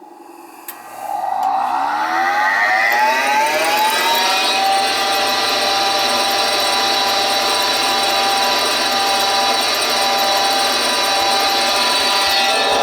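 A click, then the York 90+ gas furnace's draft inducer motor spins up with a whine that rises in pitch for about three seconds and then runs steadily. This is the start of the furnace's call-for-heat sequence.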